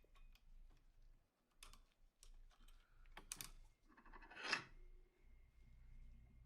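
Faint clicks of small metal pistol parts being fitted together during reassembly of a Colt M1911, with a short, louder scrape about four and a half seconds in.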